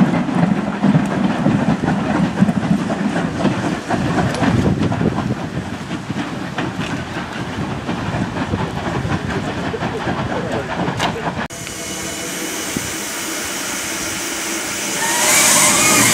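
Passenger coaches rolling away along the track, wheels clicking over rail joints, slowly fading. About eleven seconds in, this gives way abruptly to a steady hiss of steam from the Andrew Barclay 0-4-0 saddle tank locomotive, growing louder near the end.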